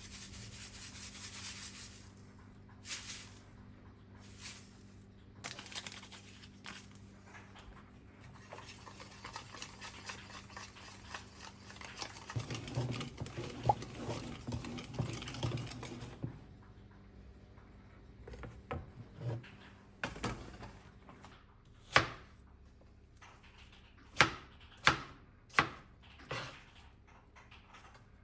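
Food preparation on a kitchen counter: rubbing and scraping for a while, then a handful of sharp single knocks of a knife chopping on a cutting board near the end.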